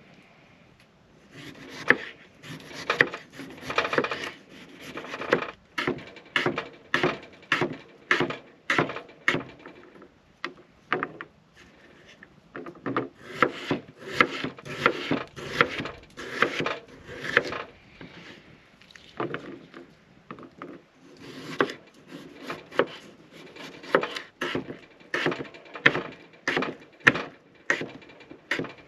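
A knife working through raw potatoes against a wooden cutting board: repeated cutting strokes about two a second, in three runs with short pauses between.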